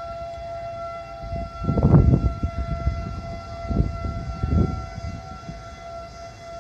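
Outdoor tornado warning siren sounding a steady, unwavering tone during a tornado warning. Low rumbles come and go about two, four and four and a half seconds in.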